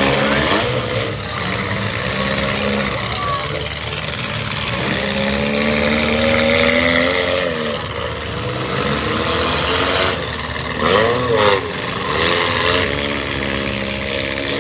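Several small-car demolition derby engines running and revving up and down over the din of a crowd.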